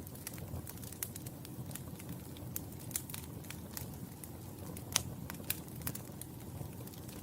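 Wood fire crackling in a fireplace: a steady low rumble of flames with frequent sharp pops and snaps at irregular intervals, one louder pop about five seconds in.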